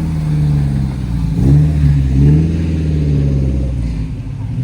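A car engine running loud and low, its pitch climbing as it is revved about a second and a half in, then holding and easing off near the end.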